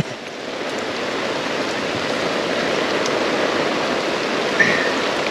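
Steady rain falling, an even hiss that swells slightly in the first second.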